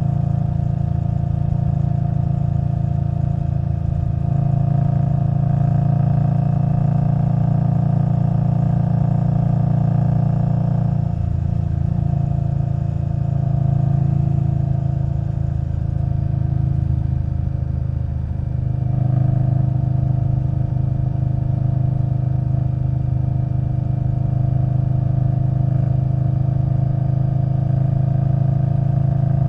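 Indian Scout Bobber Twenty's V-twin running through Vance & Hines Twin Slash exhaust while riding. The engine note eases off about 11 seconds in and picks up again at about 19 seconds.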